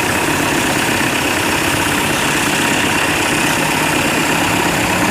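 Compact farm tractor's diesel engine running steadily.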